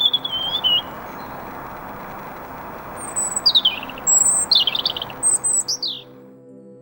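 Small songbirds singing: a warbling phrase at the start, then high thin notes and short falling trills a few seconds in, over a steady rushing hiss that cuts off near the end.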